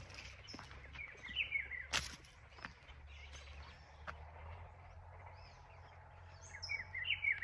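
Small birds chirping in short quick notes, a cluster about a second in and another near the end, over a low steady rumble. A few sharp clicks, the strongest about two seconds in.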